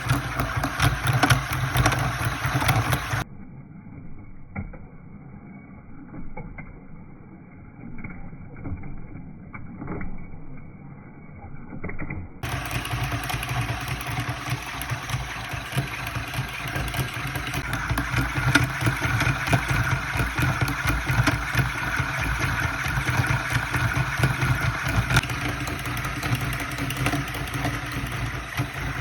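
Homemade three-solenoid star engine running a table fan, its solenoids firing in a fast, steady clatter. For several seconds early on the sound turns muffled and quieter, then it returns at full strength.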